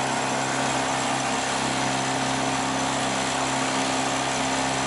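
Freshly overhauled outboard motor running steadily under way, a constant even hum under a steady hiss, with no change in pitch.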